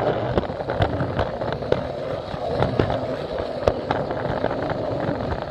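Plarail battery-powered toy train running along plastic track, its small motor and gearbox humming steadily, with irregular clicks and rattles as the wheels cross the track joints.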